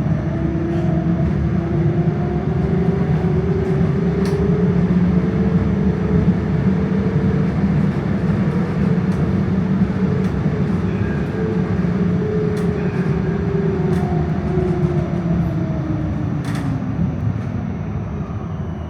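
Melbourne tram's electric traction motors whining over the rumble of steel wheels on rails, heard from inside the tram. The whine rises in pitch as the tram accelerates away, holds while it cruises, then falls as it slows near the end, with a few sharp clicks along the way.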